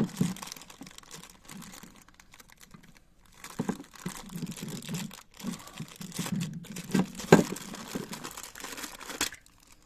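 Plastic bag crinkling and rustling as a small stand is unwrapped by hand, with scattered sharp clicks and a couple of louder knocks in the second half.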